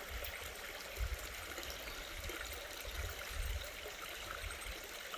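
Shallow creek running over rocks: a steady trickling rush of water, with a few low rumbles on the microphone.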